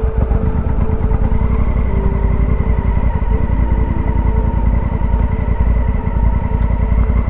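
Honda Africa Twin's parallel-twin engine running at a steady pace while riding, with a dense, even pulsing that does not change.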